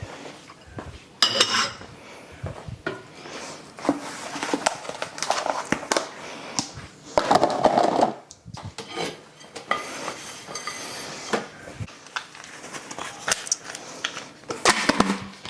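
Kitchen dishes and food containers being handled and stacked: irregular clattering and knocking, with a couple of ringing clinks, one about a second in and another near the end.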